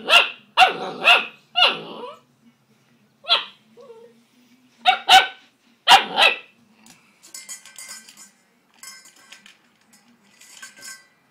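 Greater Swiss Mountain Dog puppy barking in a run of short, sharp, high-pitched barks, several close together at the start and a few more spaced out over the next five seconds; the puppy barks at his own reflection in his food bowl. The barks then stop, leaving a few seconds of quieter scratchy noise.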